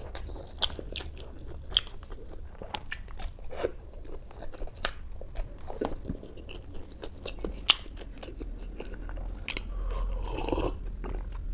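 Close-miked chewing of a person eating mutton and rice with his fingers: a string of sharp wet mouth clicks and smacks. Near the end comes a sip and swallow from a glass.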